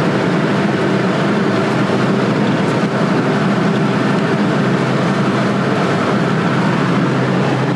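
Steady road and engine noise of a car cruising along the freeway, heard from inside the cabin.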